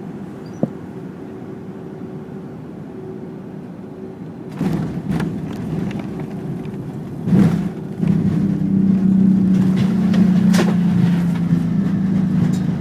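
Fokker 100 airliner heard from inside the cabin: steady engine and airframe noise that grows suddenly louder about halfway through, with a few sharp knocks, then settles into a louder, steady low drone for the last few seconds.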